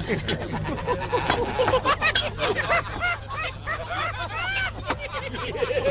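Indistinct crowd chatter with laughter, many voices overlapping at once, over a steady low hum.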